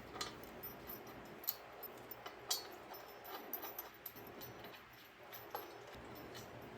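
Faint, scattered light metallic clicks and taps, about five in all, of hand tools and bolts being handled during axle assembly, over a low quiet background.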